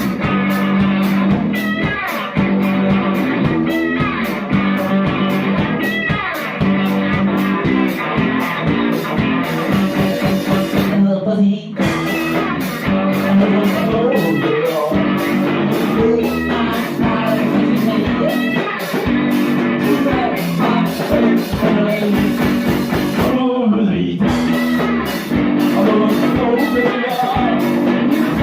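A rock duo playing live: guitar and drums keep a steady beat under a sung vocal.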